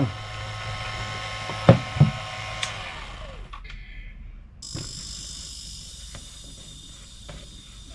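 Refrigeration service work: a steady motor hum, broken by two sharp clicks, dies away about three seconds in. Just past halfway a steady high hiss of gas starts and keeps on.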